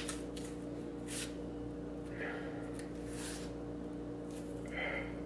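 A man chewing soft banana, with a few faint short breaths through the nose, over a steady low hum.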